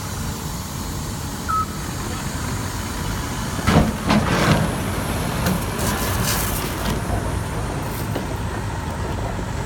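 Caterpillar D9 bulldozer's diesel engine running steadily, with louder noisy surges around four seconds in. A single short beep comes about a second and a half in.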